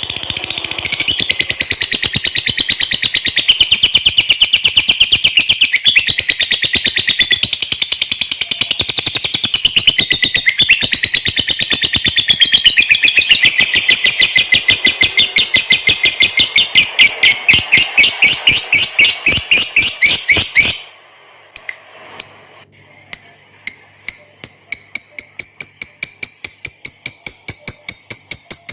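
A lovebird singing its long 'ngekek' chatter: a fast, unbroken string of sharp, high notes for about twenty seconds. It breaks off, then starts again a couple of seconds later as a rapid series of repeated notes, about six a second.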